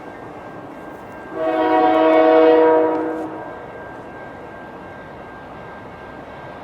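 Air horn of a CN freight train's GE diesel locomotive sounding one long chord blast, starting about a second in and lasting about two seconds, over a steady background rumble.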